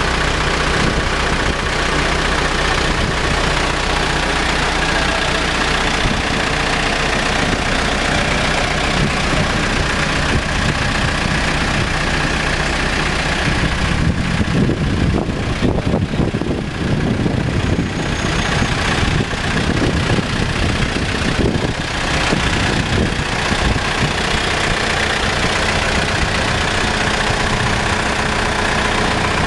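Caterpillar 420D backhoe loader's diesel engine running steadily. Its sound turns rougher and less even for several seconds around the middle, then goes steady again.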